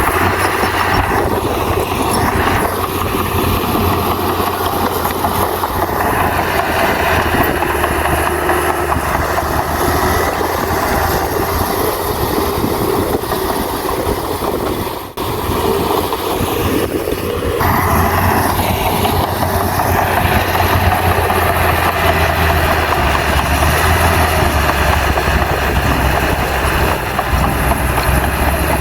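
Diesel engine of a Komatsu bulldozer running steadily under work. It dips briefly about halfway through, then carries on.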